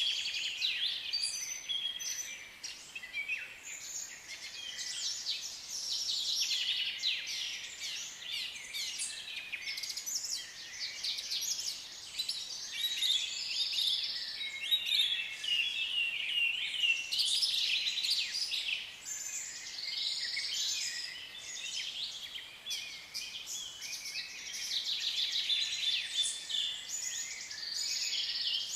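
A flock of African lovebirds chirping: many high, rapid chirps and squeaks overlapping without a break.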